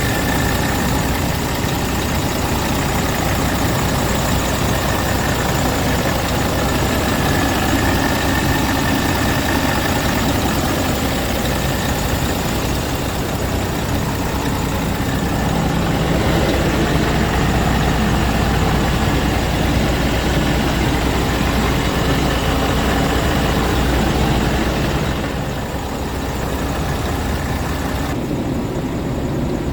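Diesel engine of a 2008 Scania R tractor unit running steadily, with a constant low hum; the sound drops a little and turns duller in the last few seconds.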